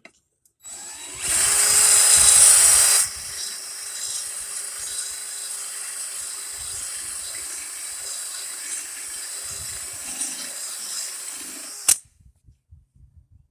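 Electric drill spinning the grinding stone of an Arnold mower-blade sharpening kit against a lawn mower blade's cutting edge. It starts with about two seconds of loud, hissing grinding, then runs on more quietly at a steady pitch for about nine seconds before stopping with a click.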